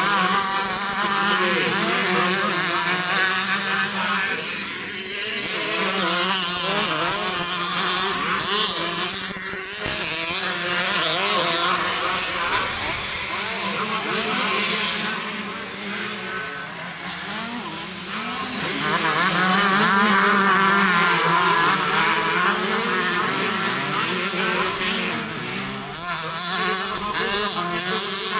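Several 125 cc motocross motorcycles racing, their engines revving hard and overlapping, the pitch climbing and dropping as riders shift and pass.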